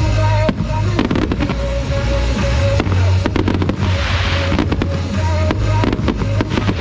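Fireworks bursting with many sharp bangs and crackles, with a stretch of crackling hiss about four seconds in, over loud music with a heavy bass.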